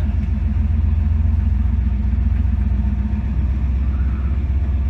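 Gasser hot rod's engine running steadily at low speed as the car rolls slowly, heard from inside the cabin.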